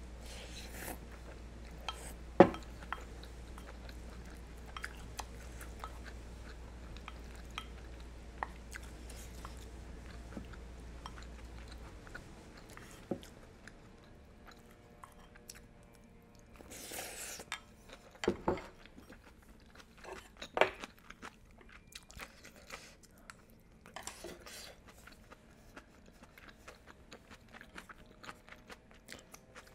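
Close-miked chewing and biting of mouthfuls of budae jjigae (Korean army base stew), with small clicks and a few sharper knocks of chopsticks and spoon, the loudest about two seconds in. A low background hum cuts out about twelve seconds in.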